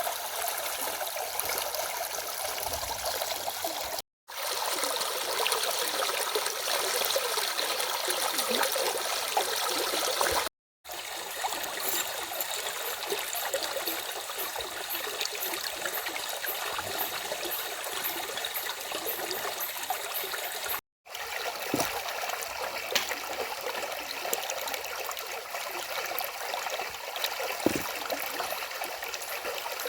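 A river running over a small cascade: a steady rush of flowing, splashing water, broken three times by a brief drop-out to silence.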